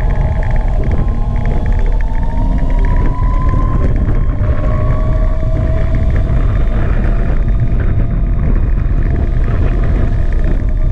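Gogoro 2 electric scooter's motor whining while riding, its pitch gliding slowly up and down with speed, over heavy wind rumble on the microphone.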